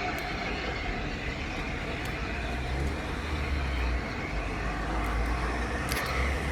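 Steady low rumble and noise of a vehicle running.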